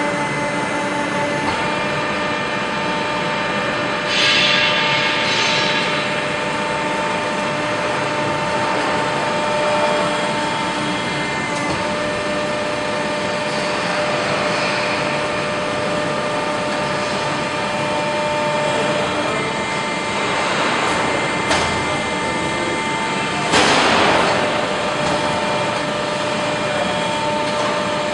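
Steady machinery noise with several constant hum tones, broken by short bursts of hissing about four seconds in and again near twenty-four seconds.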